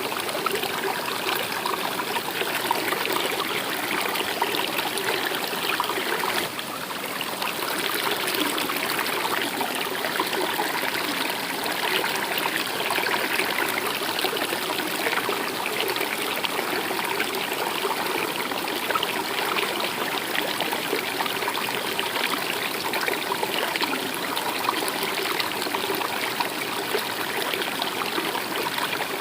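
Stream water flowing: a steady rush with trickling, dipping briefly about six seconds in.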